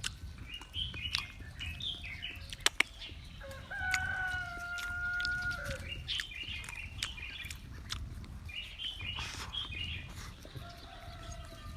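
Chickens clucking in short repeated calls, with one long call held at a steady pitch for about two seconds starting about three and a half seconds in. Two sharp clicks come just before it.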